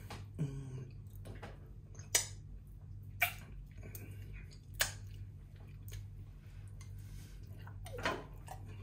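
Close-miked eating sounds: a man chewing chips, with a few sharp mouth clicks and lip smacks. A short hum of a voice comes just after the start and again near the end, over a steady low hum.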